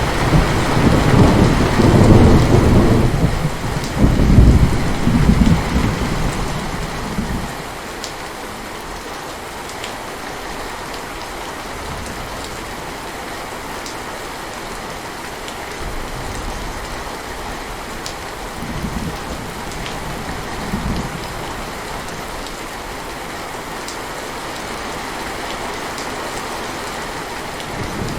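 Heavy rain falling steadily, with a long roll of thunder rumbling through the first several seconds and fading out, then a couple of fainter rumbles later on.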